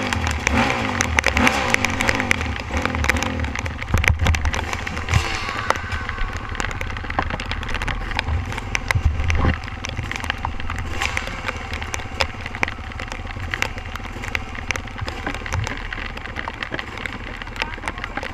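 Dirt bike engine running and changing revs while riding a trail, with many sharp clicks and crackles throughout.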